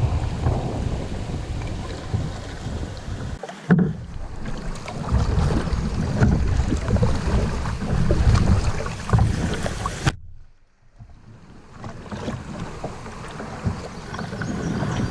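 Wind buffeting the microphone over the rush and splash of water around a kayak on a fast, flood-stage river. There is a sharp knock a little under four seconds in. About ten seconds in the sound cuts out abruptly, then builds back over the next two seconds.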